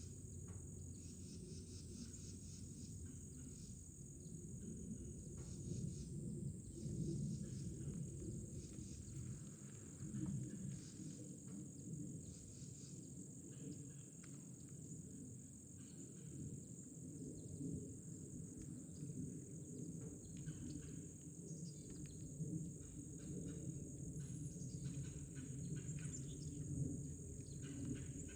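Outdoor ambience: a steady high-pitched insect drone over a low rumble, with scattered soft clicks.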